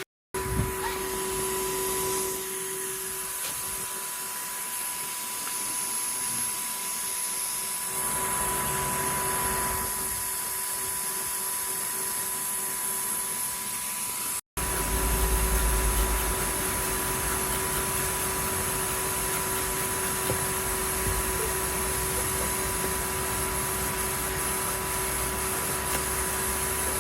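Numatic tub vacuum cleaner running steadily with a constant whine, hoovering up rubbish. The sound drops out for an instant twice, once just after the start and once about halfway through.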